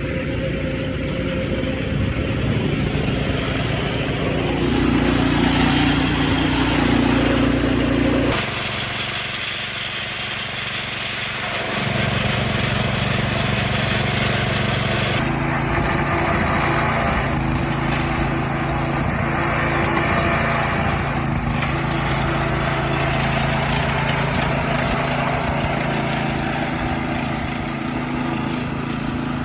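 A small gasoline engine running steadily. The sound changes abruptly about eight, twelve and fifteen seconds in.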